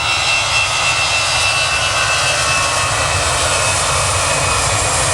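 Boeing 777-200ER's twin jet engines at takeoff power: a steady loud roar with a high whine that slides slightly lower.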